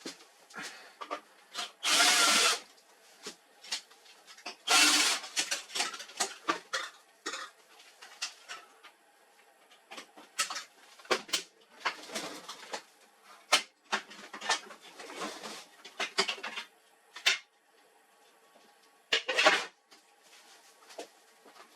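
Irregular clicks, knocks and clatter of tools and plastic and metal printer parts being handled during disassembly. There are louder rasping bursts about two seconds in, about five seconds in, and near the end.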